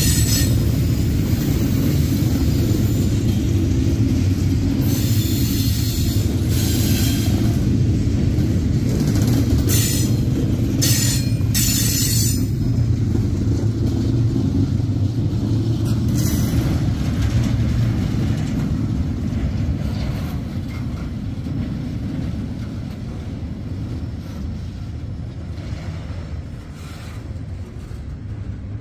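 Double-stack intermodal well cars rolling past: a steady low rumble of steel wheels on rail, with brief high-pitched wheel screeches several times in the first half. The rumble fades over the last several seconds as the end of the train moves away.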